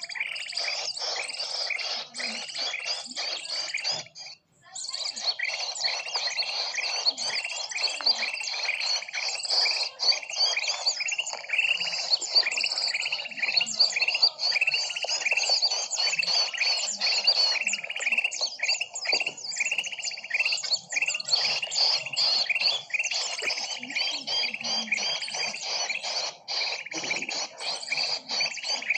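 Bird-lure (pikat) recording of a dense chorus of many small birds chirping and twittering at once, the calls overlapping without pause. It drops out briefly about four seconds in, like a splice in the looped recording.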